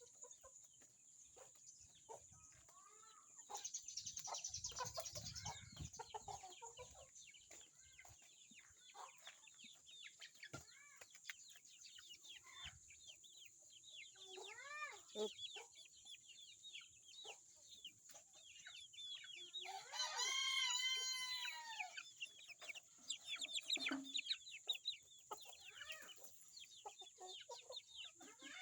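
Chickens clucking with many short calls throughout, and a rooster crowing loudly about twenty seconds in.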